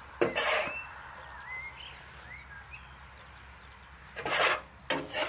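A small bird chirps a few short rising and falling notes in the background, between brief scraping, rustling noises near the start and again toward the end.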